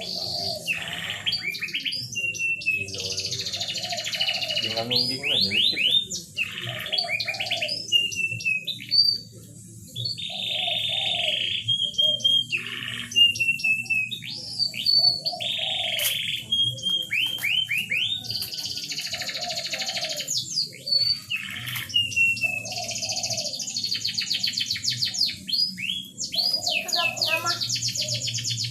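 Domestic canary singing continuously: fast rolling trills mixed with short whistled notes, with a brief pause about nine seconds in.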